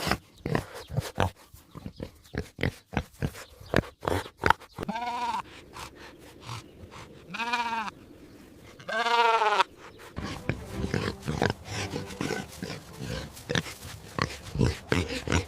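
Bleating livestock: three drawn-out bleats in the middle, a second or two apart, with quick clicks and short grunts before and after.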